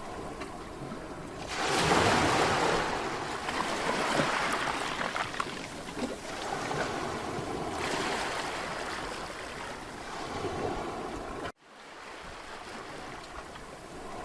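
Mediterranean sea waves breaking and washing up a beach, a wave swelling about a second and a half in and slowly ebbing. Near the end the sound cuts out for an instant and comes back softer.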